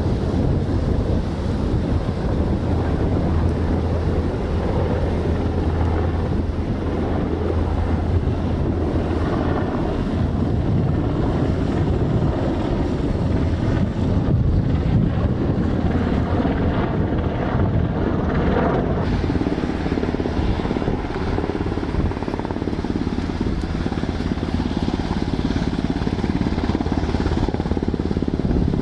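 Helicopter running overhead, its rotor and engine making a steady low hum.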